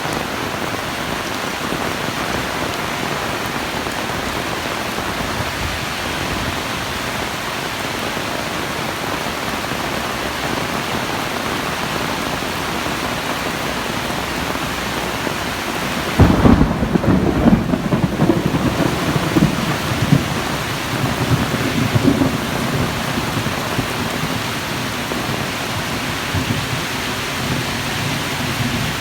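Heavy rain falling steadily. About sixteen seconds in, a sudden loud low rumble breaks in and goes on in uneven waves for several seconds before easing back under the rain.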